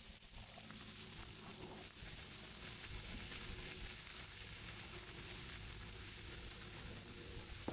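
Food sizzling over a campfire, a steady hiss.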